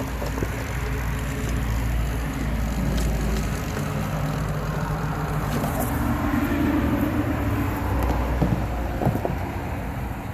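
A pump running steadily, drawing diesel fuel through a hose.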